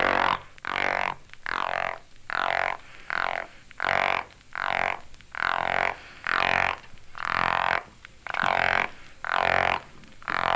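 Male Florida gopher frog giving its warning croak, the call a male makes when seized by another male. It is a rough croak repeated about thirteen times at a little over one a second.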